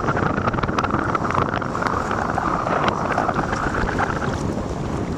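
Wind buffeting the microphone aboard a moving boat, over the steady rumble of the boat's engine and water; a steady hiss eases about four seconds in.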